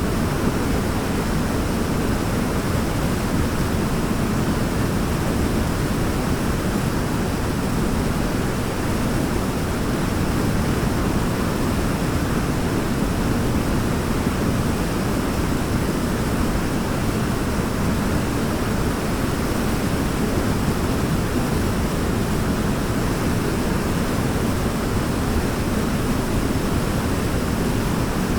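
Waterfall: a steady, unbroken rush of falling water, deep and even, with its weight in the low end.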